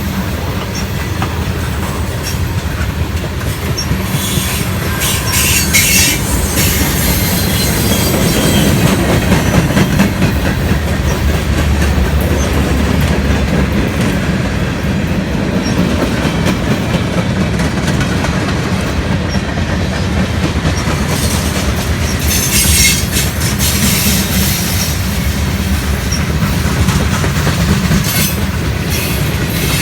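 Norfolk Southern train's cars rolling past with a steady low rumble and clacking wheels, and high-pitched wheel squeal a few times.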